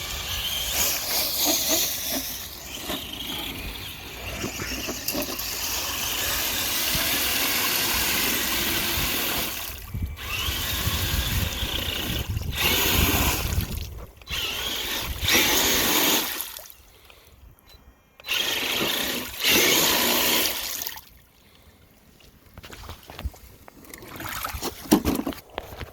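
Radio-controlled TRX-4 Sport mud truck with a Castle 3800 kV brushless motor driving through mud and water, its tires churning and splashing in bursts of throttle. It drops to quiet twice in the second half, for a couple of seconds each time.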